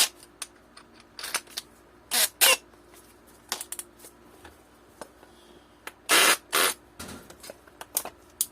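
Workshop handling sounds: a series of short, irregular scrapes and clicks as tools and parts are picked up and moved, with no power tool running.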